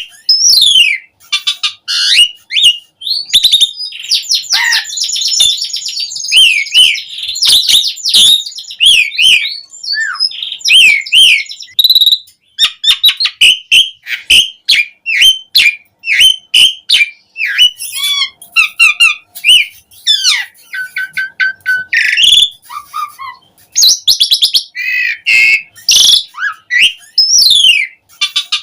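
Asian pied starling (jalak suren) in full song: a nearly continuous run of varied whistles, squeaky chatter and gliding notes with only brief pauses.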